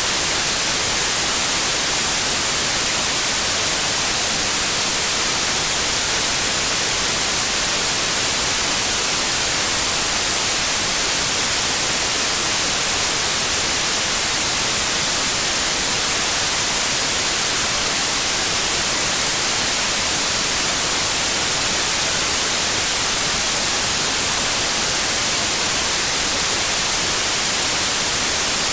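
Steady synthetic white noise: an even, unbroken hiss, strongest in the highs, with no changes in level.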